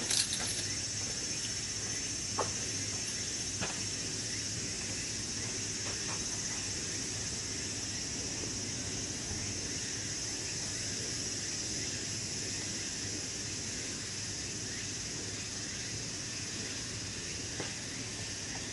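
A steady high-pitched chorus of insects chirring, with a few sharp clicks in the first few seconds and one near the end.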